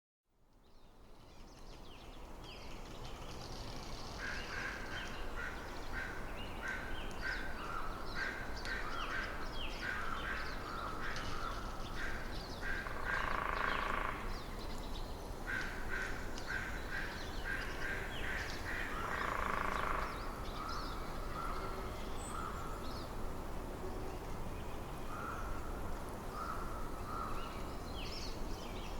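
Forest ambience fading in from silence, with birds calling over and over in short notes and a low steady rumble beneath. Two louder, longer, harsher calls stand out, about a third and two-thirds of the way in.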